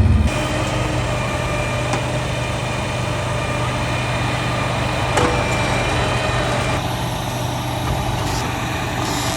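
A heavy engine idling steadily, with one brief knock about five seconds in.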